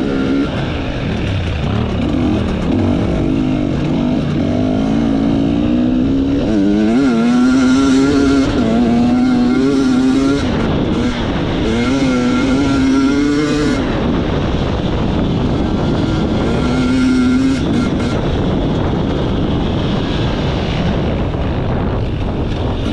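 Enduro motorcycle engine running hard under load, its pitch rising and falling again and again through the middle as the throttle is worked, over a steady rush of wind and ground noise.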